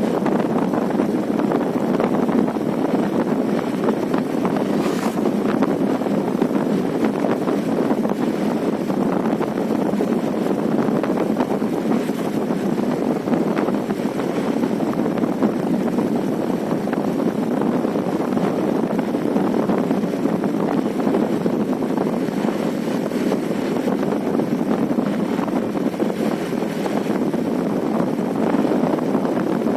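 Steady, even rushing noise without pitch: wind and road noise from travelling along a road in a vehicle.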